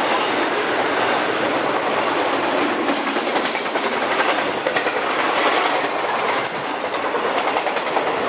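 Cars of a long freight-hauled circus train rolling past at speed: a steady rush of steel wheels on rail with rhythmic wheel clatter.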